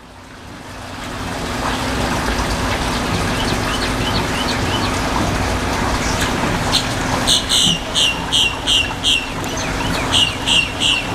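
A bird calling in two runs of rapid, evenly spaced sharp chirps, about four or five a second, starting about seven seconds in. Beneath it is a steady background rumble with a low hum that fades up at the start.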